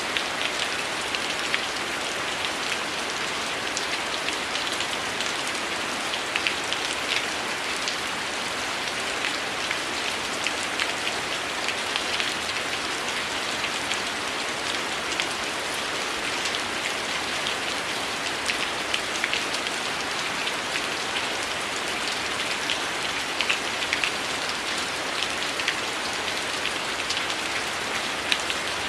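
Heavy rain falling steadily, a dense even hiss with many sharp drop impacts spattering through it.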